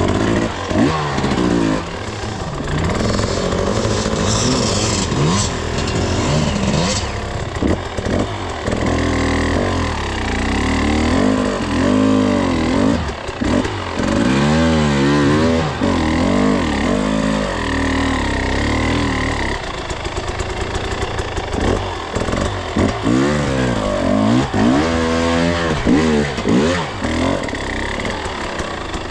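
Two-stroke enduro dirt bike engine under way, its pitch rising and falling again and again as the rider opens and closes the throttle.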